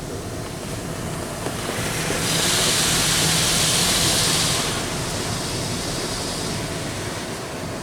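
Automatic car wash heard from inside the car: a steady rush of water over the car with a low machinery hum. For a couple of seconds in the middle, a much louder hissing spray passes over.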